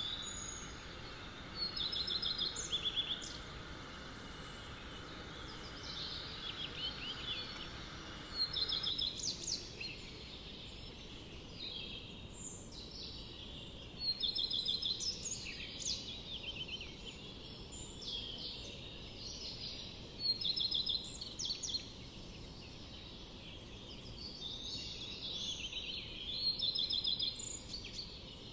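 Forest birdsong: birds singing repeated short, trilled and chirping phrases every second or two over a steady background hiss, part of which falls away about nine seconds in.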